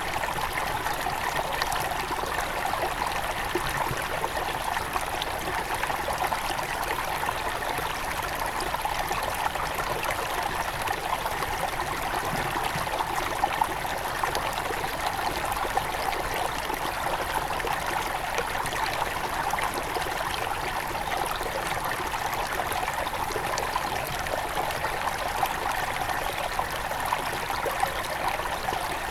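Small forest river near its source flowing steadily, an even, unchanging sound of running water.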